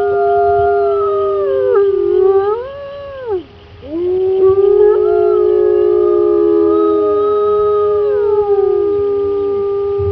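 Several canines howling together in chorus: long held howls that slide up and down in pitch and overlap one another, with a short break about three and a half seconds in before a new long howl takes over.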